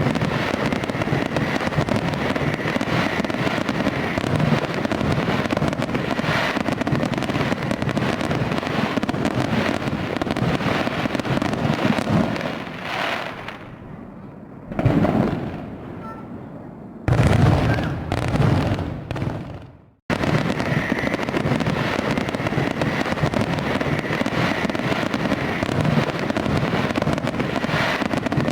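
Fireworks going off in a dense, continuous barrage of bangs and crackles. About halfway through it thins out, with one loud burst and then a short flurry that dies away, before the full barrage starts again abruptly about twenty seconds in.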